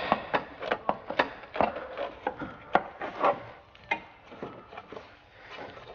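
Irregular knocks, clicks and scrapes of metal parts being handled while working on a Humvee's air filter housing, dense for about four seconds and then thinning out.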